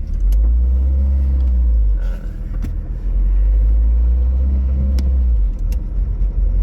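Low, heavy rumble of a car on the move, road and wind noise, with brief dips about two seconds and five and a half seconds in.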